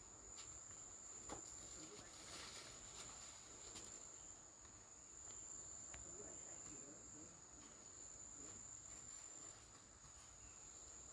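Faint, steady, high-pitched insect drone of crickets in the background, with a few soft ticks and light scuffs.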